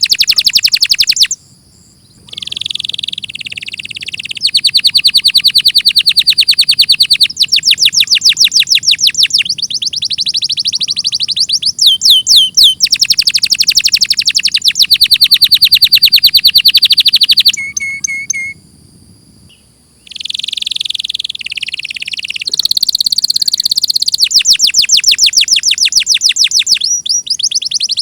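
Domestic canary singing a long song of rapid trills: phrase after phrase of fast repeated high notes, with a short break about a second and a half in and another about two thirds of the way through.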